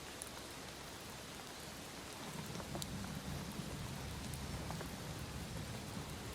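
Heavy rain falling steadily, with single drops ticking sharply close by. A low rumble joins about two seconds in.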